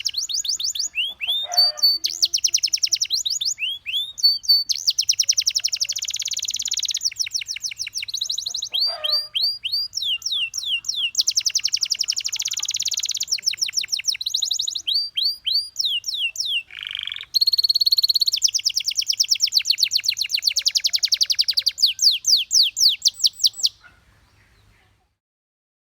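Domestic canary singing: fast trills and rolls of rapidly repeated notes in phrases of a second or two, with a few sweeping whistles between them. The song stops near the end.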